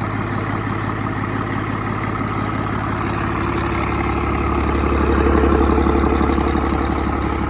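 2011 Cummins ISB 6.7-litre inline-six diesel engine running at idle. About three seconds in, it rises slightly in speed and loudness, then eases back down near the end.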